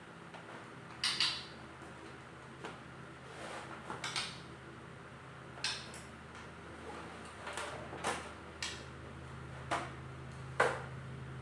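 Irregular short clinks and knocks of dishware, about ten in all, over a steady low hum that grows louder near the end.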